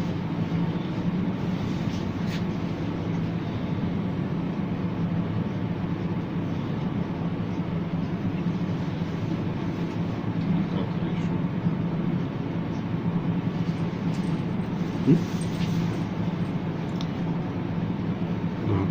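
Steady mechanical rumble with a low hum from a turning Ferris wheel, heard as the cabin slowly rises.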